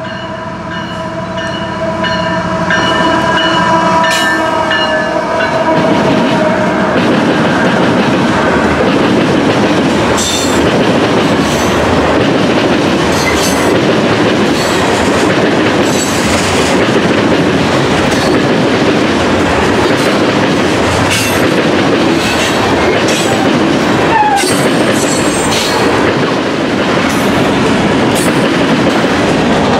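Freight train horn sounding a long steady chord as the train approaches, dying away about six seconds in. After that the train passes close by: a steady loud rumble of freight cars, with wheels clicking over rail joints and a short wheel squeal about three-quarters of the way through.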